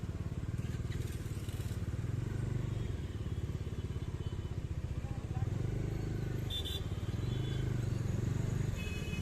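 Bajaj Dominar 250's single-cylinder engine running steadily as the motorcycle is ridden, with a low, pulsing throb. Two short high tones come in, about six and nine seconds in.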